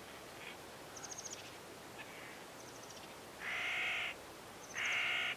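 A bird calling twice near the end, two drawn-out calls about a second and a half apart, over faint outdoor background hiss. Earlier come a few faint, high, quick chirps from a small bird.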